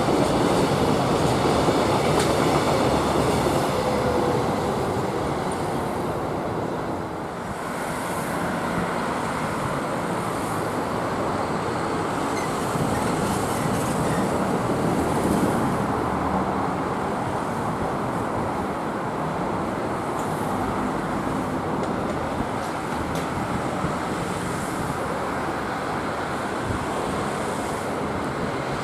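Electric freight train running past: a continuous rumble of container wagons rolling on the rails, with a brief dip in level about seven seconds in.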